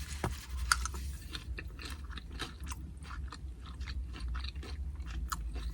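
Close-up crunching and chewing of tortilla chips loaded with carne asada and salsa, a rapid irregular run of crisp crackles and wet mouth sounds.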